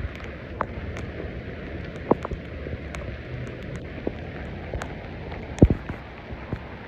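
Heavy rain falling on wet pavement: a steady hiss with scattered sharp taps of single drops, the loudest a little over halfway through.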